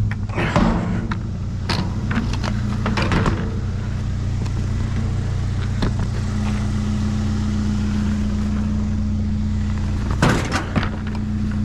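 Vehicle engine idling with a steady low hum, with several knocks and clatters in the first few seconds and again near the end as objects are handled.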